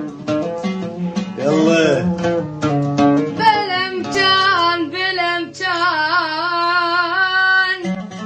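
Plucked-string accompaniment, then a little over three seconds in a child's high voice comes in singing long, wavering, ornamented held notes over a low drone until near the end.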